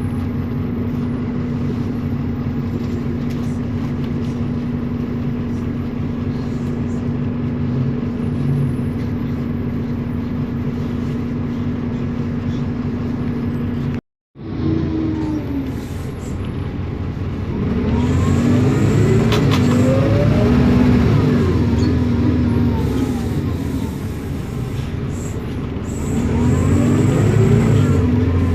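City bus with a MAN D0836 diesel and ZF Ecomat six-speed automatic gearbox, running at a steady pitch. After a brief break it pulls away, and the engine and gear/differential whine rise and drop back several times as the gearbox shifts up.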